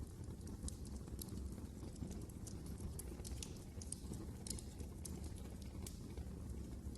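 Wood fire crackling: frequent small irregular pops and snaps over a steady low rumble of flame.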